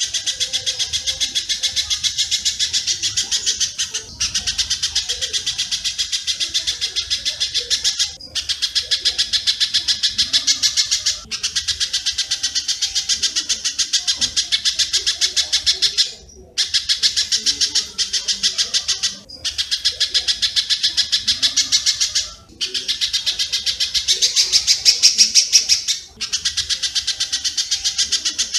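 Recorded spiderhunter and swiftlet calls from a bird-training (masteran) track: rapid, evenly repeated high chirps in runs of three to four seconds, separated by brief breaks.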